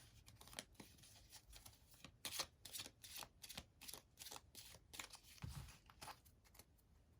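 Tarot cards being shuffled by hand: a faint, irregular run of short papery clicks.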